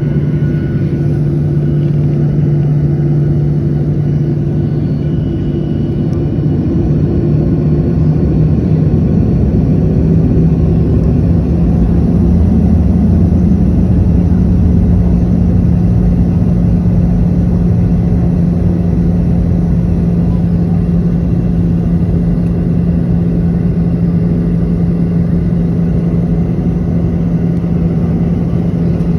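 Boeing 737-800's CFM56-7B jet engines running with a steady rumble and hum; the hum rises slightly in pitch about ten seconds in as the engines speed up.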